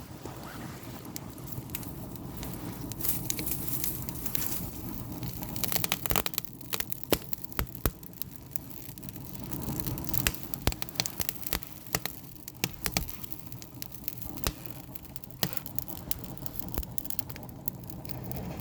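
Firewood burning in an agungi, a traditional Korean wood-fired firebox: a steady low rush of flame with frequent, irregular sharp crackles and pops from the wood.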